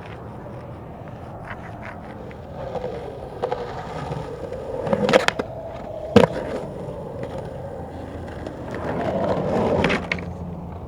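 Skateboard wheels rolling, with two sharp clacks of the board about five and six seconds in, and the rolling growing louder near the end.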